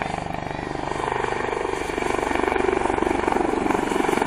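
Westland Lynx helicopter flying, its main rotor beating in a rapid, even rhythm over the engines' noise, getting louder about a second in.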